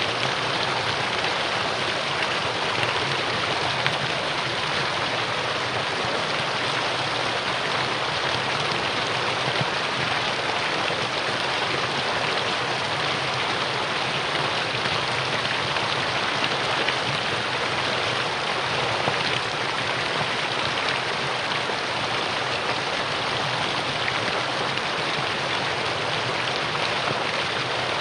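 Mountain stream water rushing and splashing over rocks, a steady, dense rushing.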